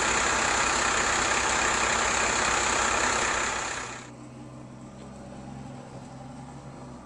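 Sanitation truck's engine running close by, loud with a steady low beat and a strong hiss; about four seconds in it drops sharply to a quieter, steady hum.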